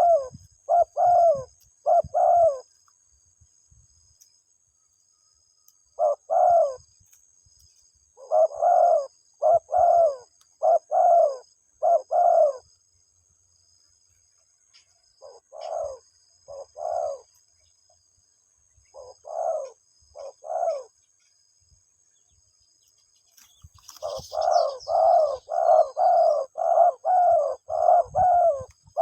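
Spotted dove cooing: groups of low, rhythmic coos separated by pauses of a few seconds, a few fainter phrases midway, then a long fast run of coos near the end.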